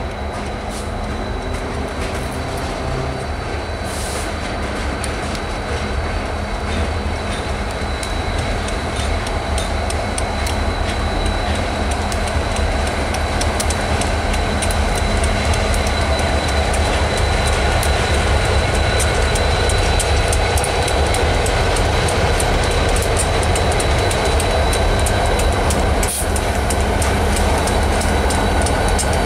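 Freight train passing: Canadian Pacific diesel locomotives rumble by, followed by hopper and tank cars, with wheels clicking over the rail joints. The sound grows gradually louder as the train draws nearer.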